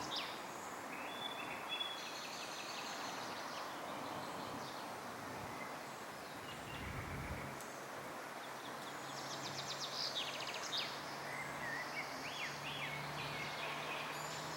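Wild songbirds singing short, fast trilled phrases now and then, heard over a steady outdoor hiss. There is a brief low thump about halfway through.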